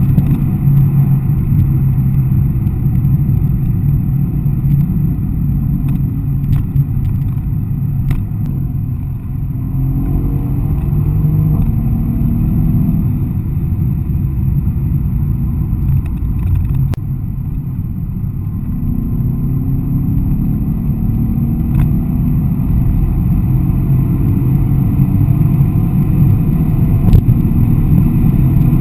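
Mercedes-AMG E63 S 4Matic's twin-turbo V8 running hard at speed, a loud low drone of engine and road noise. It eases briefly about nine and seventeen seconds in, then builds again with a rising engine note as the car pulls.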